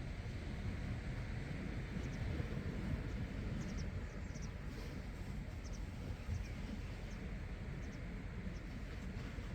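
Steady low outdoor rumble, with faint, short high bird chirps now and then.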